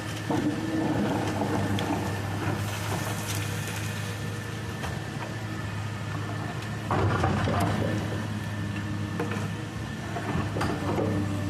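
Excavator's diesel engine running steadily under hydraulic work, with a louder rush of noise about seven seconds in.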